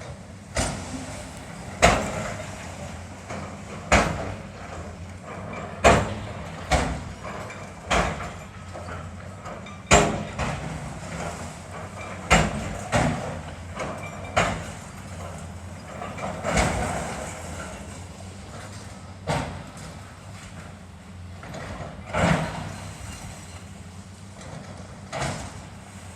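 Demolition of a building: a heavy machine's engine runs steadily underneath repeated loud crashes and thuds of falling debris. The crashes come about every two seconds at first, then more irregularly, some trailing off in a clatter.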